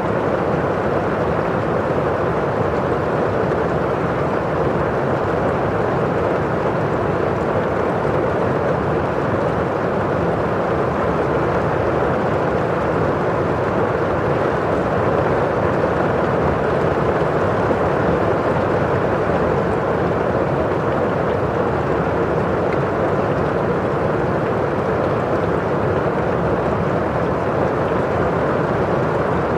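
Steady rain, heard as a constant, even, muffled rushing with no separate drops standing out.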